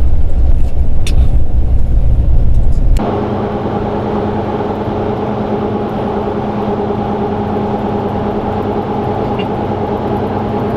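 Vehicle road noise heard while driving: a loud low rumble for about three seconds, then a sudden cut to a quieter, steady drone with a constant hum.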